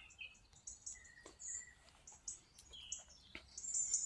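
Small songbirds chirping: scattered short high calls and twitters, faint, with a couple of light ticks in between.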